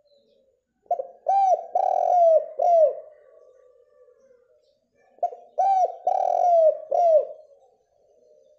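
Spotted dove (derkuku) singing: two phrases of four or five short coos, about four seconds apart, the middle coo in each phrase drawn out the longest.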